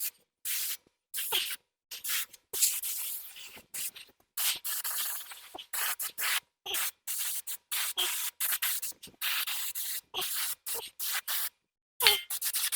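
Paint being sprayed onto a tractor wheel hub in many short hissing bursts, roughly one or two a second with brief gaps between them.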